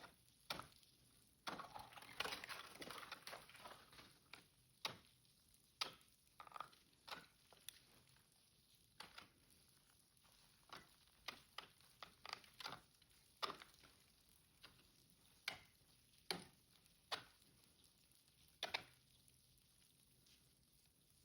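Faint, irregular crunching strikes on snow and ice, roughly one a second, with a denser run of crackling about two seconds in.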